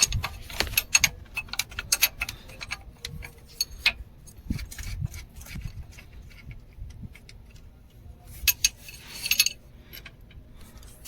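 Irregular metal clicks and clinks of a wrench undoing the 19 mm nut on the main cable terminal of a starter motor.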